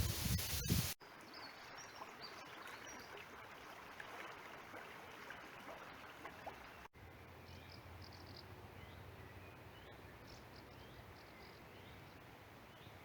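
Faint outdoor river ambience: a soft steady hiss of flowing water with small birds giving short, high chirps and calls, more of them in the second half. The first second holds louder rustling noise that cuts off suddenly.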